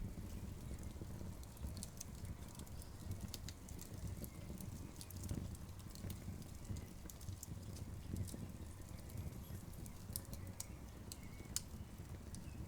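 Wood campfire crackling: scattered sharp pops and snaps over a steady low rumble of burning.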